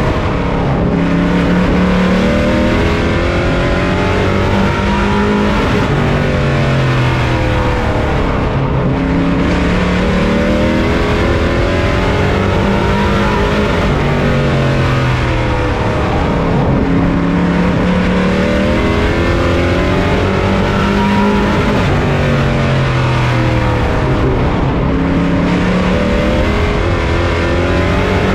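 On-board sound of a pro truck's race engine, heard from inside the truck at racing speed. The engine pitch drops and climbs again about every eight seconds as the driver lifts for each turn and gets back on the throttle down each straight, over a constant rush of wind and tyre noise.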